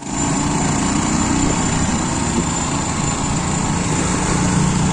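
Small motorcycle engine running steadily, with a thin high whine above it.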